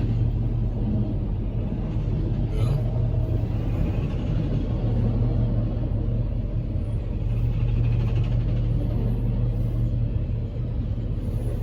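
Truck engine idling, a steady low hum heard from inside the cab.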